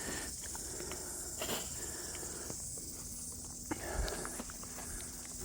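Footsteps with scattered knocks and rustles from someone climbing over a fence on a bush track, with a low thump about four seconds in, over a steady high hiss.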